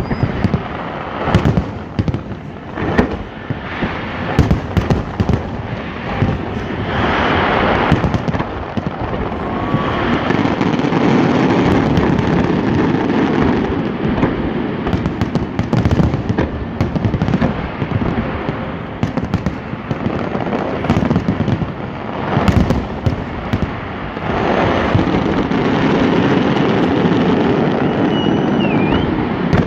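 Aerial fireworks shells bursting in quick succession. Separate sharp bangs come in the first few seconds and again later, and in long stretches between them the bursts run together into a continuous dense rumble.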